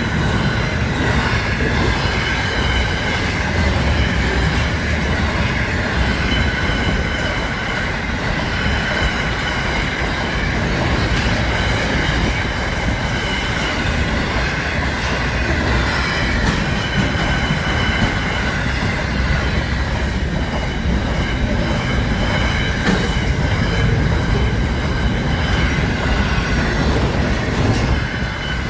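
Container freight train passing at speed: a continuous rumble and clatter of wagon wheels on the rails, with a steady high wheel squeal over it.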